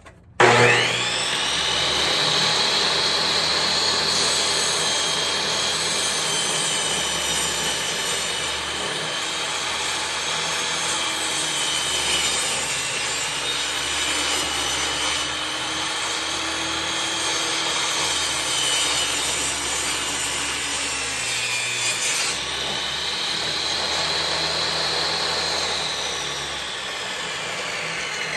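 Table saw starting with a quickly rising whine, then running as the blade cuts a half-inch-deep rabbet along a cedar board; the motor's pitch sags under the cutting load through the middle and recovers. The saw winds down near the end.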